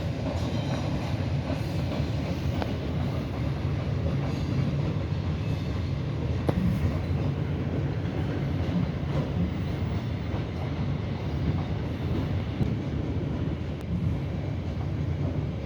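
Suburban electric train running along the track, heard from inside the carriage: a steady low rumble with a few scattered clicks from the wheels on the rails.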